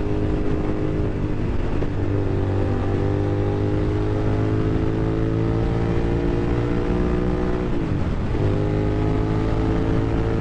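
A 2001 Suzuki SV650's V-twin engine pulling under way, its note climbing slowly and dropping at gear changes, a small one about a second in and a clearer one about eight seconds in.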